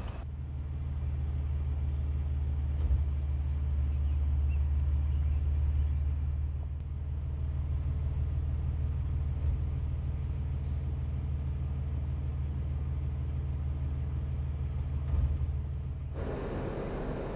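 Steady low rumble of a car driving, heard from inside the cabin; the rumble eases about sixteen seconds in.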